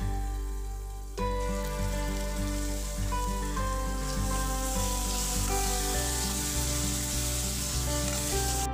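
Tomato masala sizzling in an aluminium kadai while it is stirred with a steel spoon, a hiss that comes in about a second in, grows stronger, and cuts off suddenly at the end. Gentle background music plays throughout.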